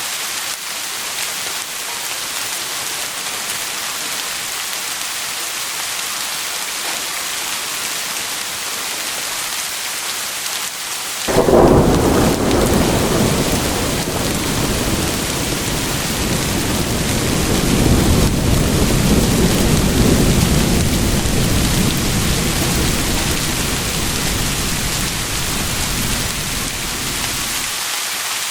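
Steady heavy rain hissing, with a clap of thunder breaking in suddenly about eleven seconds in and rolling on as a long low rumble that swells again and dies away near the end.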